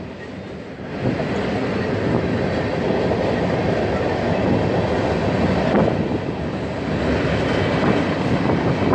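Freight train cars rolling past: a steady rumble and clatter of steel wheels on the rails, growing louder about a second in.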